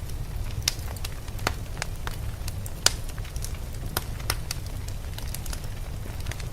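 Wood fire crackling in a fireplace: irregular sharp pops and snaps, several a second, with the loudest pop a little under three seconds in, over a steady low rumble.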